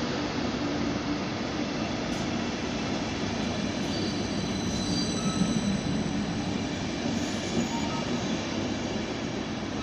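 A train rolling on the rails with a steady rumble of wheels, and a few faint, brief wheel squeals.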